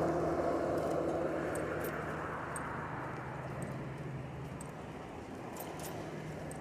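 Road traffic noise from a passing motor vehicle, fading steadily as it draws away, with a few faint scattered clicks.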